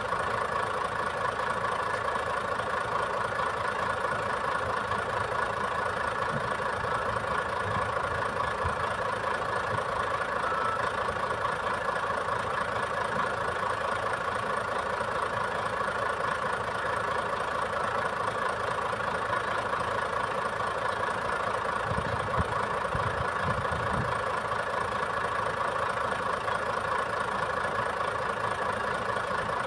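Boom truck's engine idling steadily, with a brief low rumble about three quarters of the way through.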